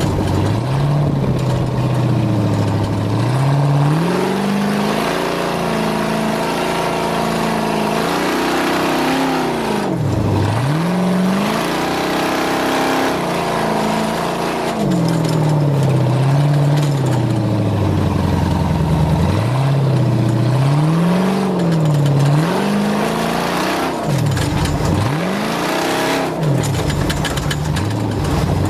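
Race car engine running hard, its pitch repeatedly climbing and falling as the car speeds up and slows, with a few sudden sharp drops and rebounds.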